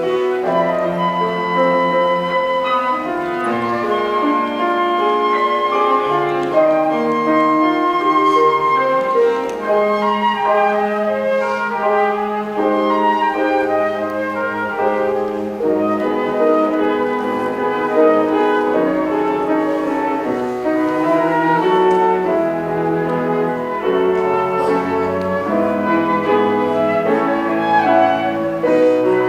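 Flute, cello and piano playing together in a contemporary chamber piece: sustained flute lines over piano and low cello notes.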